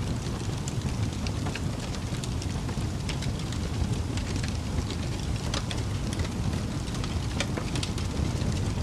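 Wood fire in a fireplace, burning steadily with a low rumble of flame and frequent sharp crackles and pops scattered through it.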